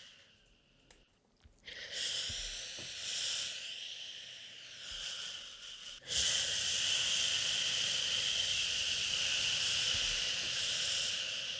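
Drawn-out 'shhh' shushing hiss for soothing a baby. It nearly stops at the start, comes back about two seconds in with a slightly wavering pitch, and from about six seconds in is louder and steady.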